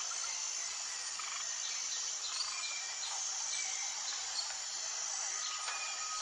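Outdoor nature ambience: a steady high-pitched insect drone with scattered short bird chirps and brief whistled notes over it.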